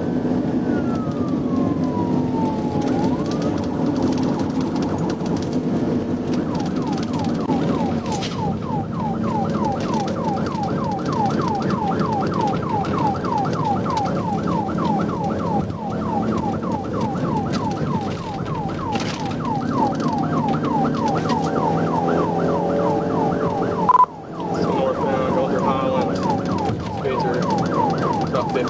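Police car siren during a high-speed pursuit: a slow rising-and-falling wail that switches a few seconds in to a fast repeating yelp, over the steady rumble of the patrol car's engine and road noise. The siren cuts out for a moment about 24 seconds in.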